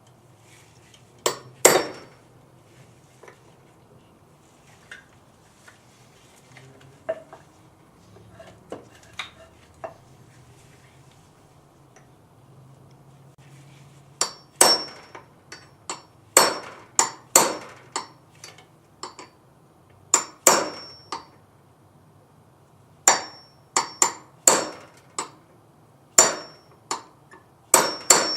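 Hammer strikes on steel, driving the roll pin through the HEI distributor's drive gear and shaft; each blow rings briefly. Two hard blows come early, then light taps, then a steady run of hard blows about one a second.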